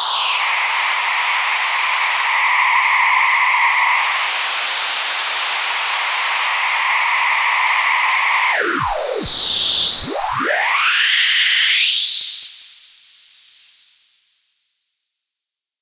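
Patching Panda Vibrazum Mk2 triple resonant Eurorack filter sweeping a hissy noise signal: several resonant peaks ring over the hiss, swoop down together about two-thirds of the way in and glide back up, then the sound fades out near the end.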